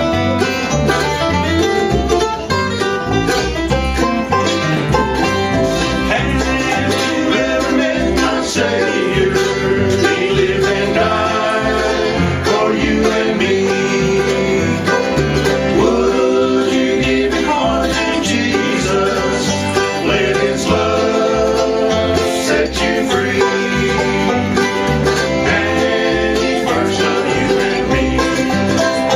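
Bluegrass band playing live, banjo picking over guitar with a steady bass beat.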